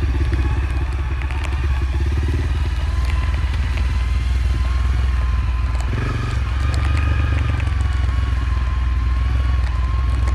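Motorcycle engine running steadily while riding on a dirt road, with scattered clicks and rattles from the bike over the rough surface. The engine note changes briefly about six seconds in.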